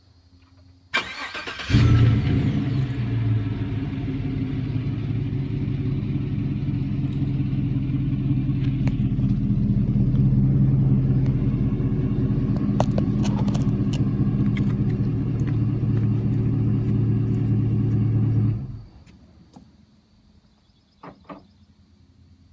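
2016 Chevrolet Silverado's 5.3-litre V8 started through a Flowmaster Super 44 exhaust. The starter cranks briefly about a second in and the engine catches with a loud flare. It then idles steadily, deep and low, for about seventeen seconds until the sound stops abruptly.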